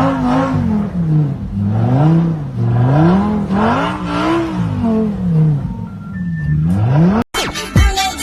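Car engine revved over and over, its pitch climbing and falling about five times and rising once more before it cuts off about seven seconds in.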